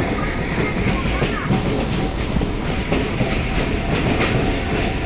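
Chennai MRTS EMU suburban train running at speed, heard from inside the coach: a steady rumble of wheels on rails with a clattering rattle.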